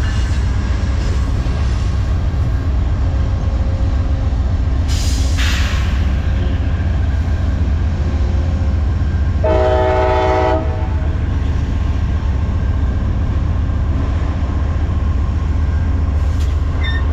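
Amtrak GE P42DC diesel locomotives rumbling heavily as the passenger train rolls into the station, with a brief hiss about five seconds in. One short horn blast sounds about ten seconds in.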